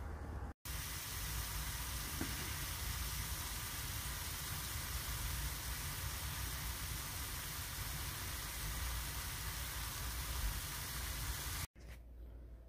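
Ground beef and onions frying in a pan on a gas stove: a steady sizzling hiss over a low rumble, which starts after a brief break near the start and cuts off abruptly near the end.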